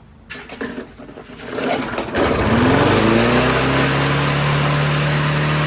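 Old walk-behind gas lawnmower engine starting: it sputters unevenly for about two seconds, then catches, revs up quickly and runs steadily at high speed. It is stuck at wide open throttle.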